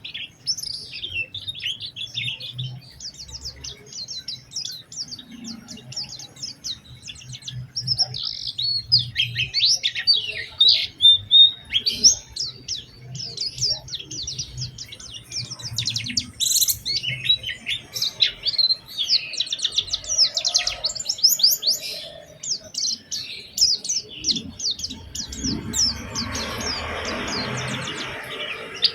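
White-eye (pleci) singing a fast, continuous run of high chirps and trills. Near the end a rough, hissy noise sounds for a few seconds under the song.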